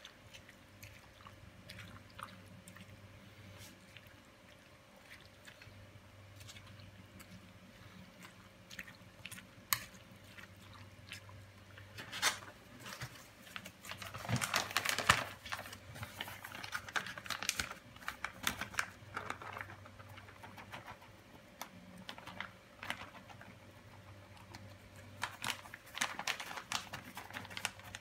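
Creamy macaroni salad being stirred in a bowl: soft wet squelching and scraping with scattered small clicks of the utensil, busier about halfway through and again near the end.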